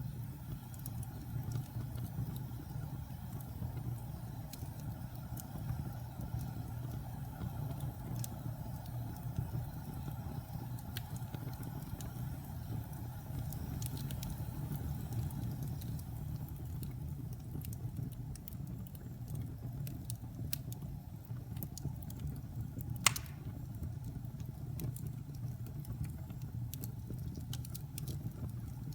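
Wood fire burning in a fireplace: a steady low rumble of the flames with scattered crackles, and one loud pop about three-quarters of the way through.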